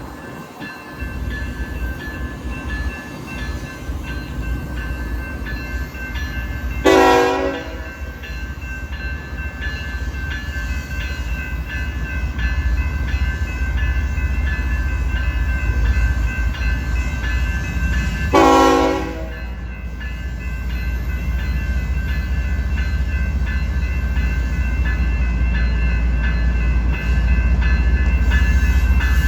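Diesel freight locomotives approaching with a low rumble that grows louder toward the end. The locomotive air horn sounds two short blasts about eleven seconds apart.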